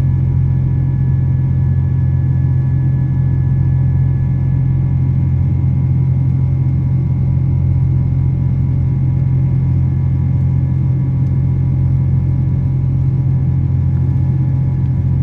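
Steady drone inside a Boeing 777 airliner's cabin: a deep, even engine hum with several steady tones above it, unchanging throughout.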